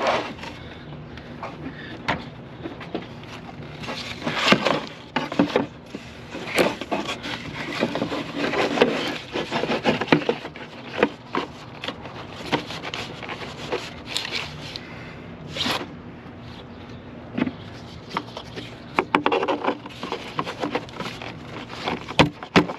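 Irregular clicks, knocks and scrapes of engine-bay parts and hand tools being handled as components are refitted on a pickup's engine after a coil pack swap.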